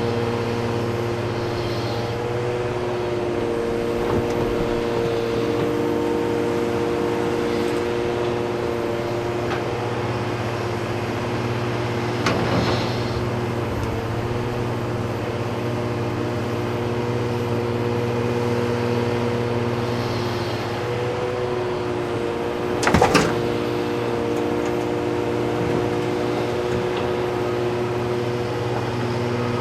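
Heavy diesel earthmoving equipment running steadily, a constant engine drone with a low hum and several steady tones above it. A short sharp knock about twelve seconds in and a louder one about twenty-three seconds in.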